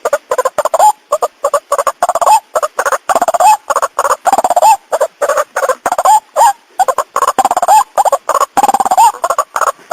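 White-breasted waterhen (ruak-ruak) lure call: a loud, rapid run of harsh repeated notes, about five a second, some of them rising in pitch.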